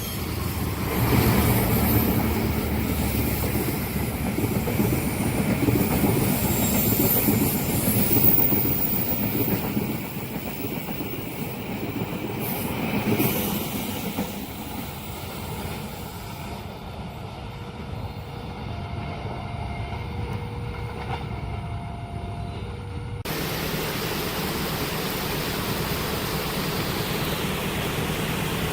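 Train passing over a level crossing, the wheel-on-rail noise loud at first and easing off about halfway through. A few short two-note tones sound after that, and near the end the audio cuts sharply to a steadier low rumble.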